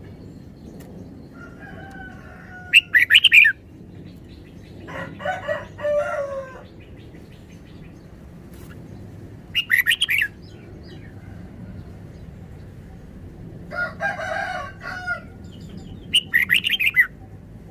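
Red-whiskered bulbul singing short, bright, loud phrases three times, about six to seven seconds apart. Lower, longer bird calls come in between, about five and fourteen seconds in.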